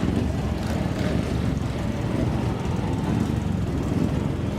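Steady low rumble of a car engine running, with no change in pitch or level.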